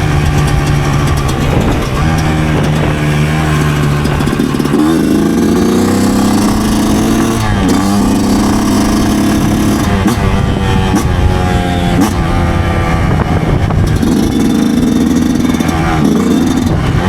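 2009 Yamaha YZ125 two-stroke single-cylinder dirt bike engine running under riding, heard close from the rider's helmet. It runs low and steady at first, then climbs in pitch as the throttle opens about a third of the way in. It drops briefly near the middle and again near the end as the throttle is eased.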